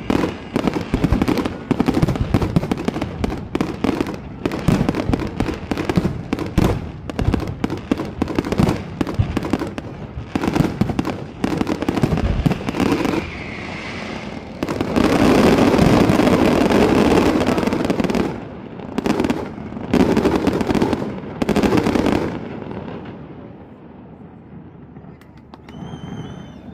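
Fireworks going off: a rapid, irregular run of bangs and crackles, with a falling whistle about 13 seconds in and a dense loud stretch in the second half, then dying away over the last few seconds.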